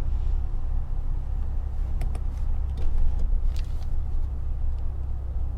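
2006 Infiniti G35 coupe's VQ35DE V6 with a Z1 touring exhaust, a steady low drone at cruising speed along with road noise, with a few brief clicks around the middle.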